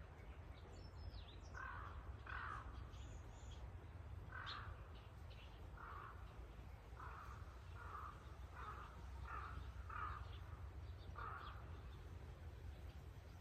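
Birds calling in the morning: a series of about ten short, evenly pitched calls at irregular intervals, with a few fainter, higher chirps near the start, over a faint low steady rumble.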